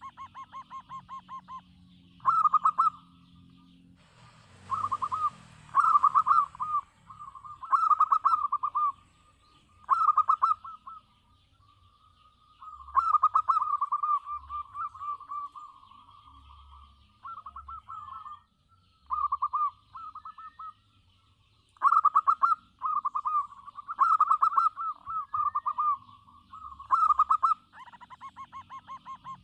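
Zebra dove (perkutut) singing a long run of its rhythmic, stuttering cooing phrases, each a quick burst of pulsed coos, with short pauses between them.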